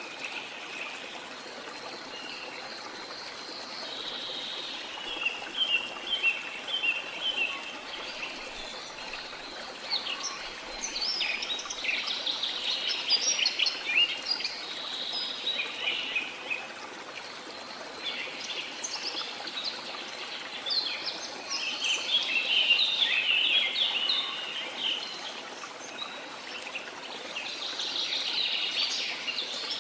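Several birds singing and chirping in quick trills and repeated notes over the steady rush of falling water. The birdsong comes in bouts, busiest in the middle and again toward the end.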